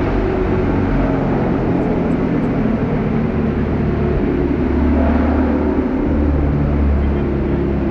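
Ford Mustang GT's V8 running through a Corsa aftermarket exhaust, a steady deep exhaust drone that swells a little in the middle.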